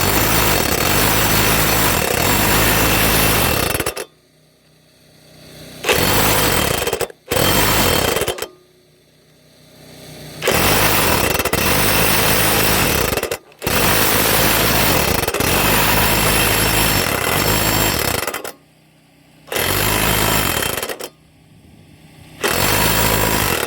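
Electric impact wrench hammering in repeated bursts of one to five seconds with short pauses between, about seven runs, working on a seized riding-mower blade bolt by alternately loosening and tightening it to walk it out.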